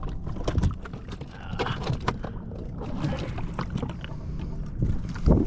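Irregular small knocks and water sounds on a fishing kayak, over a steady low rumble, with a heavier thump near the end.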